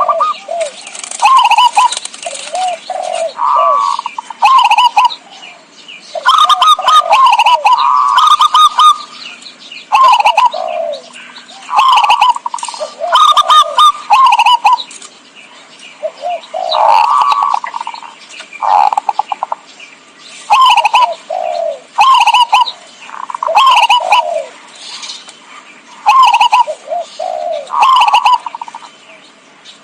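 Zebra doves cooing: short phrases of quick, rippling coo notes repeated every second or two, with brief gaps between.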